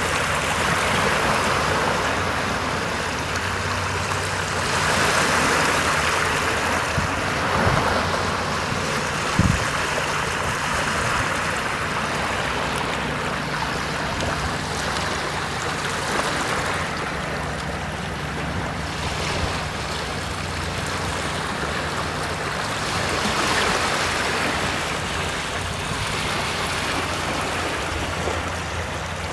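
Sea waves washing in and ebbing, the wash swelling every several seconds over a steady low hum. A sharp thump about nine seconds in.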